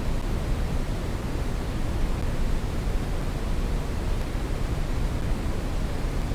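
Steady brown noise: an even, unchanging rush of noise with most of its weight in the deep and middle range, tapering off in the highs.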